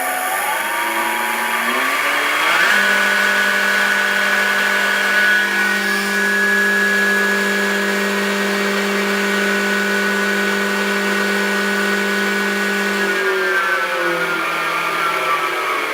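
Electric motor of a homemade milling machine whining, stepping up in speed over the first few seconds, running at a steady pitch for about ten seconds, then stepping back down near the end.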